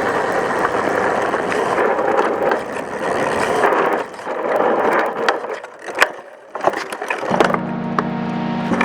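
Mountain bike rolling over a rough trail: steady tyre and rattle noise, then several sharp knocks from bumps about five to six seconds in. A steady low hum starts about seven and a half seconds in.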